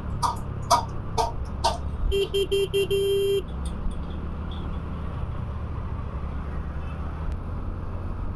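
Traffic horns over the steady low rumble of a motorcycle riding: four short high-pitched beeps in quick succession, then a lower, fuller vehicle horn honking in several quick pulses and held briefly before cutting off.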